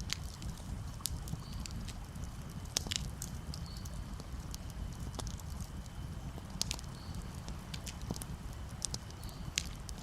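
Campfire crackling, with irregular sharp pops and snaps scattered throughout, over a steady low rumble.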